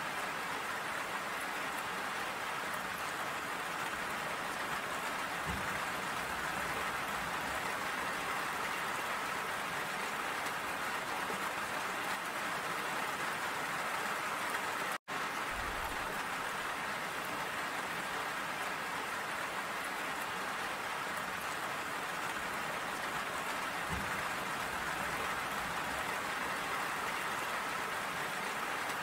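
Steady rain falling, drops pattering on a wet metal railing. All sound drops out for an instant about halfway through.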